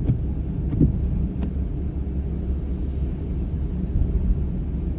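Car driving on a rain-soaked road, heard from inside the cabin: a steady low rumble of engine and tyres, with a couple of brief faint sounds about a second in.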